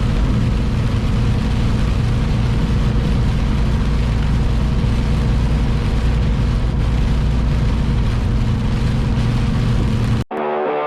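Semi-truck engine running steadily with a constant low hum and road noise, cut off abruptly near the end by electric guitar music.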